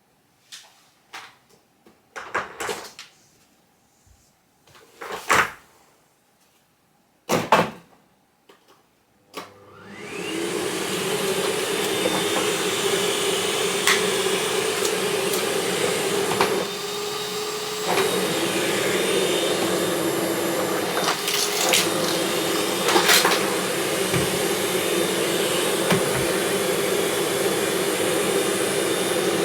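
A few scattered knocks and clicks, then a vacuum cleaner is switched on about ten seconds in and runs steadily, with a short dip in its pitch and level about two thirds of the way through and a few sharp clicks over it.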